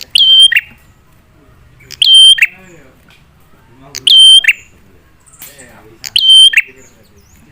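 Prinia (prenjak) call played as a lure, loud, repeated four times about every two seconds; each call is a short ringing note held steady, then a quick lower flick.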